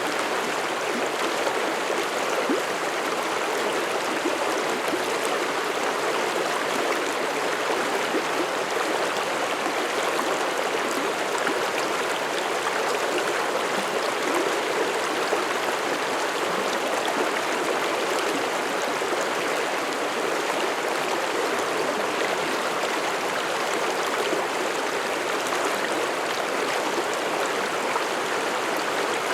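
Mountain stream flowing and babbling over rocks, a steady rushing of water.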